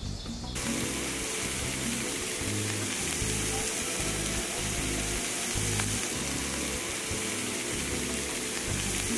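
Butter and oyster mushrooms sizzling in a stainless-steel frying pan, starting suddenly about half a second in, with background music over it.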